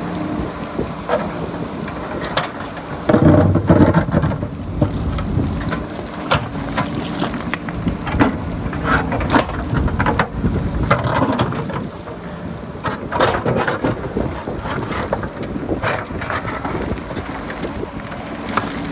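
JCB backhoe loader's diesel engine running under load while its bucket digs and scrapes into rock, with repeated knocks and stones clattering. The engine works hardest about three seconds in. Wind buffets the microphone.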